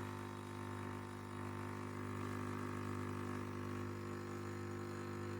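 Nescafé Dolce Gusto pod coffee machine's pump running with a steady hum, pushing hot water through a coffee pod into the cup.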